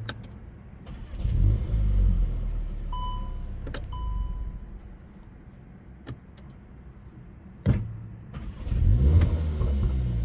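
VW Golf R Variant's 2.0-litre turbocharged four-cylinder running on its exhaust just after a cold start, with a cold engine. The engine note swells and settles twice, about a second in and again near the end. Two short beeps come about three and four seconds in, and a few sharp clicks.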